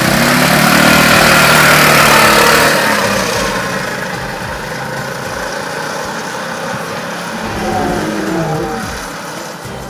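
Small petrol engine of a go-kart-style race car revving as the pedal is pushed down, pulling away and fading over a few seconds. Another engine swells and falls again about eight seconds in.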